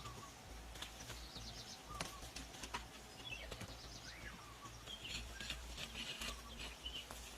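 Faint birdsong: scattered short chirps and trills from small birds, with a few light taps.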